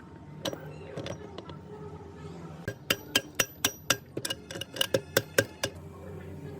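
Hard metal struck or tapped repeatedly: a few scattered clinks, then a quick run of about fifteen sharp, ringing metallic strikes, four to five a second, lasting about three seconds.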